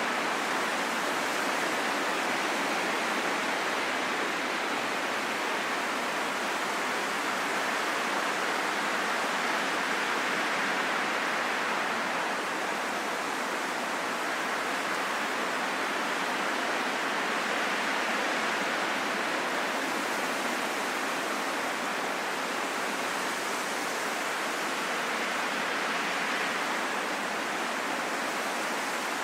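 Steady wind noise: an even rushing hiss, strongest in the middle of the range and thin in the low end, slowly swelling and easing.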